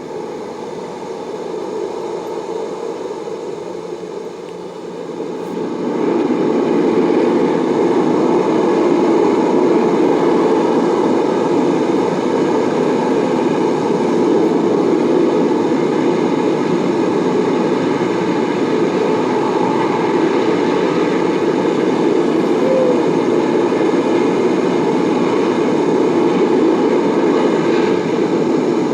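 Recorded sound effect of strong wind blowing, a steady rushing noise that grows louder about six seconds in and then holds.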